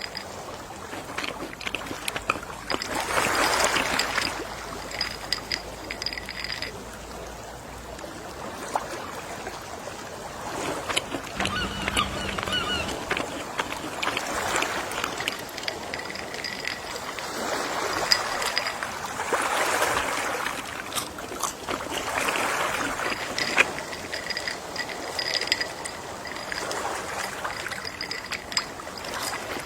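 Gentle sea waves washing onto the shore, the surf swelling and fading every few seconds.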